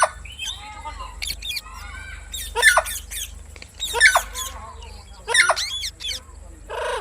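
A parrot squawking: sharp, loud calls about every second and a half, with softer warbling chatter between them.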